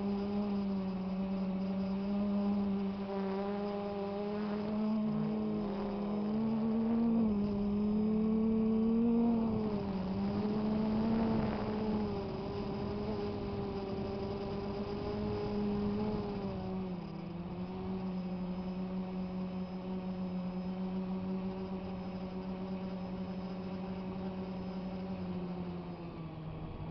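DJI Phantom quadcopter's motors and propellers buzzing in flight, the pitch wavering up and down as it manoeuvres, then settling a little lower and steadier about two-thirds of the way through.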